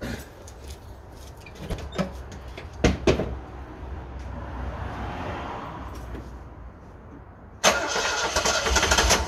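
A car door clicks open. About two-thirds of the way in, the Alfa Romeo 90's engine is started: a sudden loud, fast rhythmic churning from the starter turning it over.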